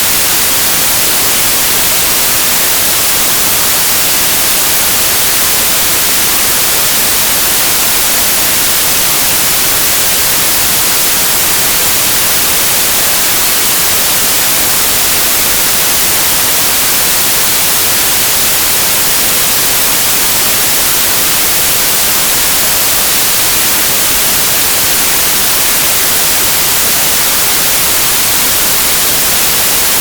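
White noise: a steady, even hiss, strongest in the highs, with no changes.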